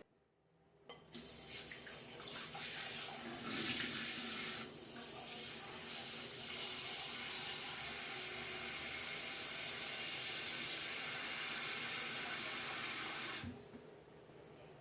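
Kitchen tap turned on about a second in, water running and splashing into a sink, then shut off near the end.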